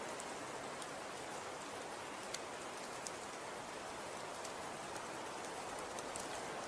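Falling snow: a steady soft hiss, with scattered faint ticks of flakes landing.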